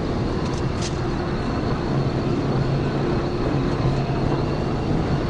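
Patrol car driving at high speed: steady engine and road noise with a low hum.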